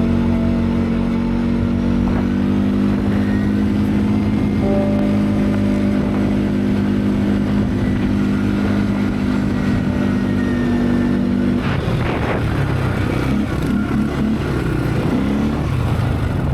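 KTM 890 Adventure's parallel-twin engine running at a steady speed while riding. About twelve seconds in, the revs start rising and falling unevenly.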